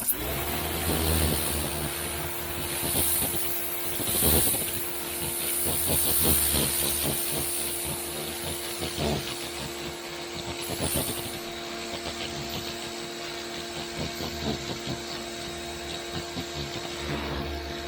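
Sun Joe electric pressure washer running, its motor and pump humming at a steady pitch under the hiss of water blasting from an oscillating turbo tip onto a wooden deck. It starts suddenly and the spray noise swells and fades as the wand moves.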